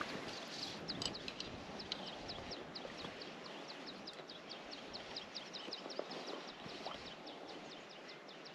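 A bird calling a long, steady series of short, high, falling notes, about four or five a second, over a steady outdoor hiss.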